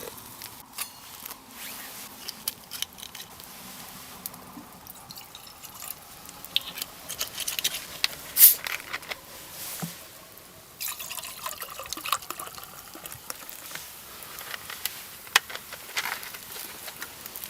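Liquid dripping and trickling, with scattered sharp clicks and taps; one loud click comes about halfway through.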